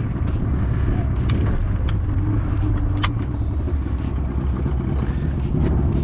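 Small boat's outboard motor running steadily at low speed, with a few short knocks.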